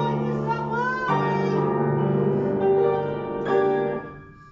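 Piano accompaniment of a song holding chords, with a wavering sung note over it in the first second. A final chord is struck about three and a half seconds in and dies away, closing the song.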